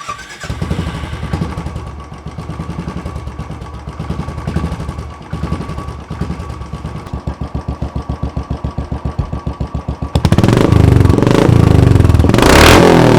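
Royal Enfield Bullet single-cylinder engine idling with an even thump through a custom megaphone exhaust whose glass wool packing is used up, then about ten seconds in turning much louder as it is revved, with one rising and falling rev near the end.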